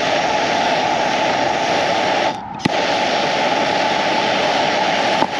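Jet-flame torch lighter hissing steadily while lighting a firework fuse. It cuts out briefly about two and a half seconds in, then starts again with a click.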